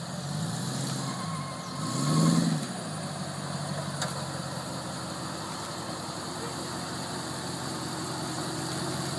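Classic Range Rover's engine working as it crawls over a rutted drop-off. It revs up and down twice in the first few seconds, loudest about two seconds in, then runs steadily at low revs. There is a single sharp click about four seconds in.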